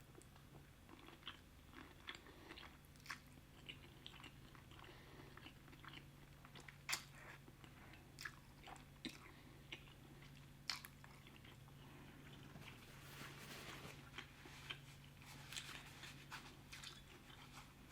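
A person eating pasta close to the microphone: soft chewing with many small irregular wet mouth clicks and smacks, a couple of them sharper and louder, over a faint steady hum.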